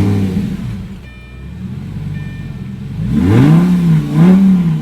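Lamborghini Gallardo's V10 engine, running through an exhaust opened up by a disconnected exhaust valve, flares up just after starting and settles to idle. About three seconds in it is revved twice, its pitch rising and falling with each blip.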